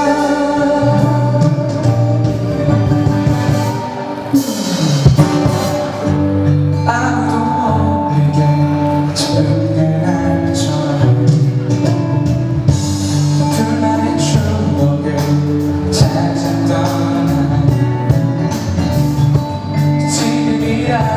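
Live performance of a Korean pop ballad: a male singer's voice over instrumental accompaniment, continuing steadily.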